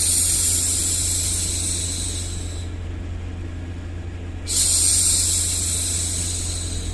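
A woman hushing a baby with two long drawn-out "shhh" sounds, each about two and a half seconds and fading off, the second starting about four and a half seconds in. A steady low rumbling noise bed runs underneath.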